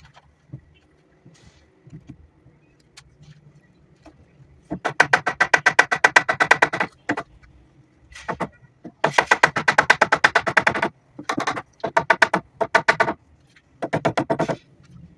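Power tool running in bursts with a rapid, even hammering rattle: a long burst, a short one, another long one, then several short stop-start bursts.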